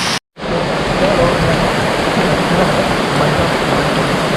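Heavy rain pouring steadily, a dense loud hiss, broken by a sudden dropout to silence about a quarter second in.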